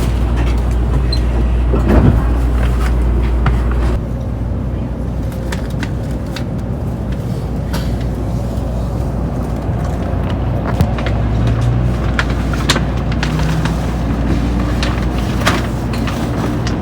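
Cabin noise inside a Tokaido Shinkansen car at speed: a steady low rumble with scattered small clicks and knocks. There is a thump about two seconds in, and the rumble eases a little about four seconds in.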